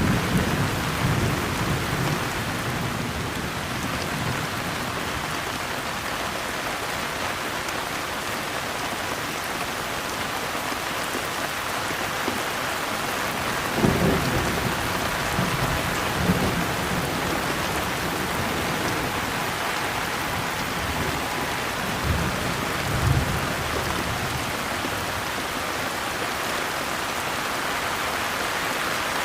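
Steady rain falling, with low rumbles of thunder: one at the very start, two around the middle, and another about two-thirds of the way through.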